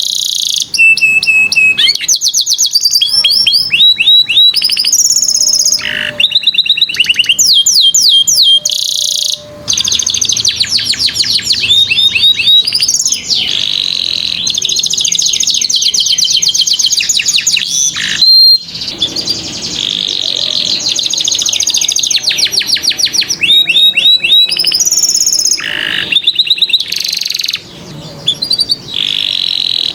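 Domestic canary singing loud, continuous song: rapid trills and rolls of repeated high chirping notes, changing from phrase to phrase with only brief pauses.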